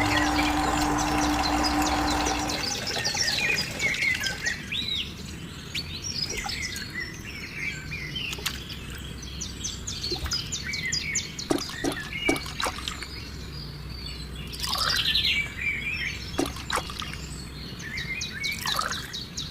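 Birds chirping and twittering in many short, quick calls. Music fades out in the first two or three seconds.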